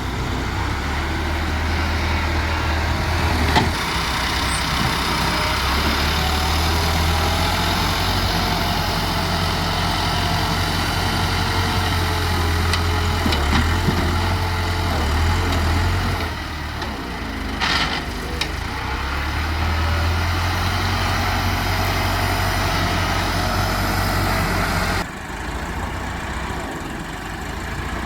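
Diesel engine of heavy earth-moving machinery running steadily, with a single knock a few seconds in and a sudden drop in loudness near the end.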